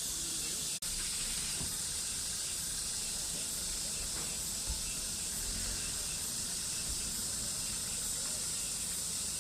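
Cicadas buzzing in a steady, high-pitched summer chorus, with the sound cutting out for an instant just under a second in.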